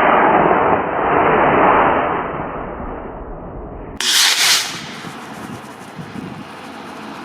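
Model rocket motor igniting and burning with a loud rushing roar that fades over about three seconds as the rocket climbs away. About four seconds in, a sudden short burst of loud noise.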